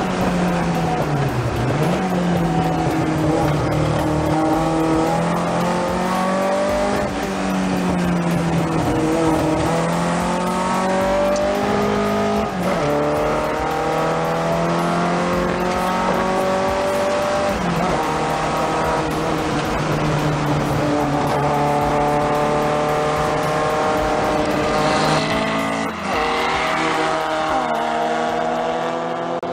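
Mk1 VW Golf GTI's 2.0 16-valve ABF engine on Weber carburettors under hard acceleration. The revs climb and then drop sharply several times, as with gear changes, about every five seconds.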